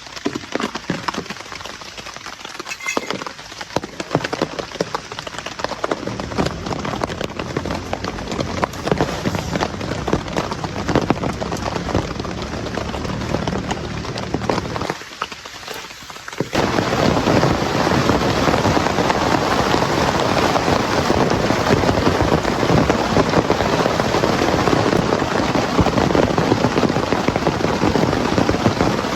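Heavy rain falling, a dense spatter of drop hits; a little over halfway through it suddenly becomes louder and denser.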